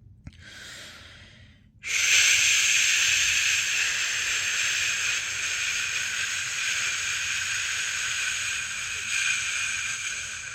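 A person shushing a baby to sleep: a short, soft 'shh' just after the start, then a long, loud, steady 'shhh' held for about nine seconds.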